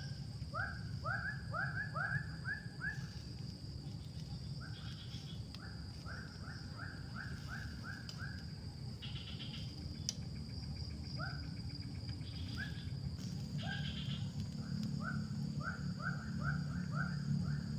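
A bird calls in runs of short, quickly rising notes, five to seven at a time at about three a second, with pauses between the runs. A steady high insect drone and a low steady rumble run underneath.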